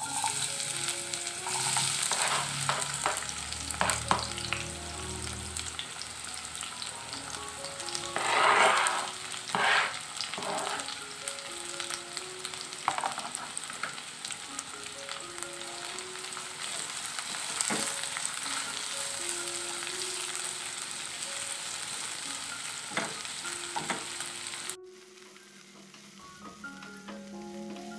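Sliced garlic, shallots, chillies and onion sizzling in hot oil in a non-stick wok while a spatula stirs them, with loud crackling bursts about 8 and 10 seconds in. The sizzle turns much quieter near the end.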